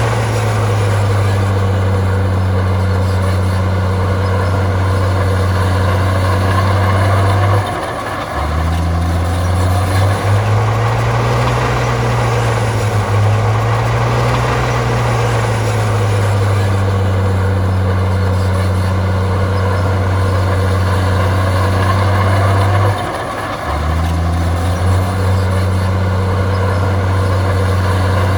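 Heavy diesel engine of earthmoving machinery running under load, its pitch rising and falling as the load changes. Twice the sound breaks off briefly and comes back.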